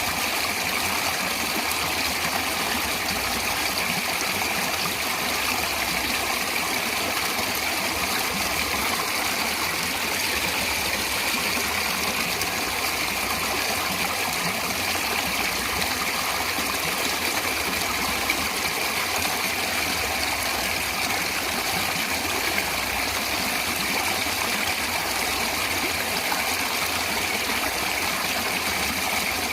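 Natural stream water running steadily, an even, unbroken flow.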